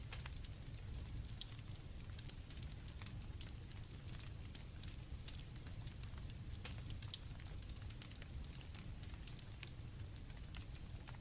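Campfire crackling, with scattered sharp pops over a low rumble, and crickets chirping steadily in a high, thin tone.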